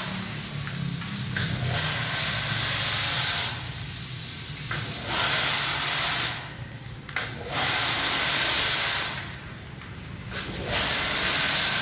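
High-pressure washer jet spraying a car in a touchless wash. The hissing spray swells and drops back several times as the jet moves on and off the body, over a steady low hum.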